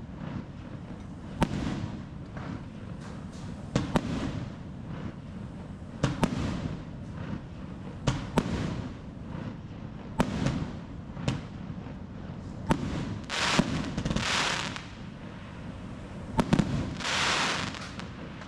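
Fireworks going off: sharp bangs every second or two, with two longer hissing, crackling bursts in the second half.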